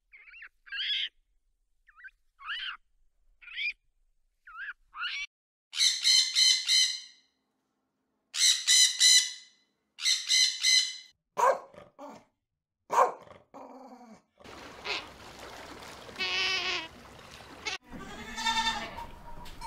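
A string of short, high chirping calls, then loud, harsh squawks from a red-and-green macaw in several bursts. Near the end, goats bleat over a steady noisy background.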